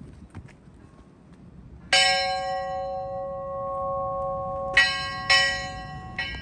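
A bell struck four times: the first strike, about two seconds in, rings on for nearly three seconds, then three quicker strikes follow near the end.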